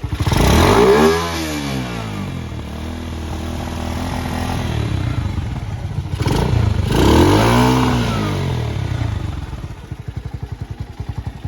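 Keeway 125 cruiser motorcycle engine revved twice, each rev rising and falling back over about two seconds. Near the end it settles into an even, pulsing idle.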